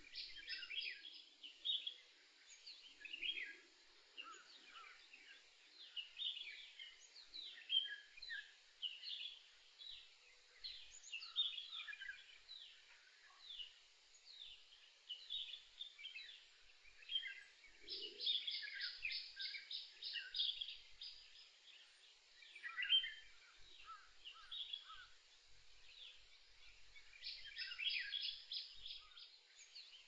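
Several songbirds calling in forest, a busy mix of short chirps and whistled notes, with a fast trill of evenly repeated notes a little past halfway and another near the end.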